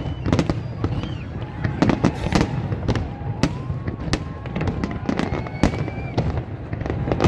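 Fireworks display: a dense, continuous run of shell bursts and crackling bangs, several a second.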